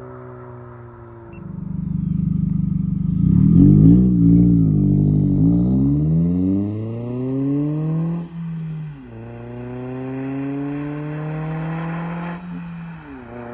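A four-cylinder car with an aftermarket exhaust idles, then the exhaust note swells as it pulls away, loudest about four seconds in. The engine note climbs and is cut twice by quick gear changes, dropping in pitch after each one.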